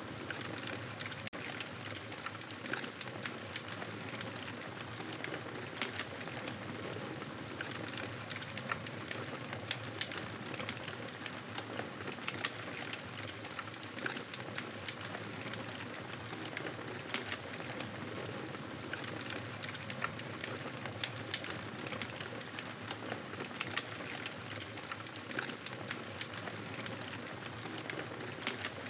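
Campfire crackling: a steady hiss of burning wood with frequent small sharp pops and snaps.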